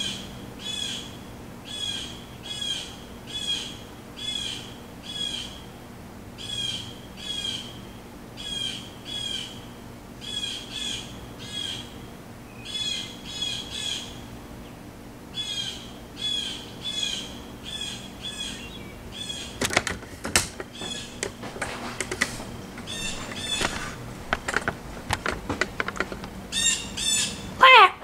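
A bird calling over and over, short sharp high notes in quick runs, about two a second, with brief gaps between runs. In the last several seconds scattered clicks and knocks mix in, ending with a short loud falling squeak.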